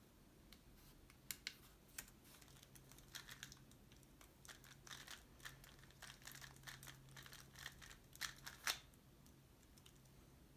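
Tornado V3 Pioneer 3x3 speedcube being turned fast during a timed solve: a rapid patter of plastic layer clicks for about eight seconds, ending with a couple of louder clacks.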